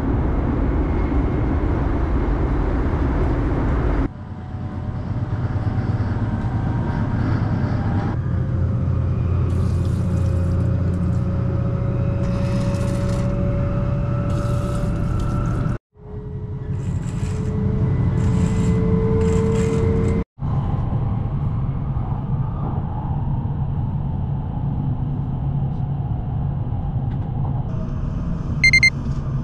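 Running noise of a Hokuriku Shinkansen train heard from inside the car, a steady rumble with a slowly rising whine in some stretches. A short beep sounds near the end.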